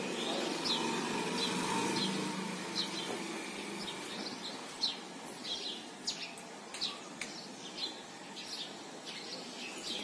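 Small birds chirping, short high chirps repeated about once or twice a second, over a low hum that fades out in the first two seconds.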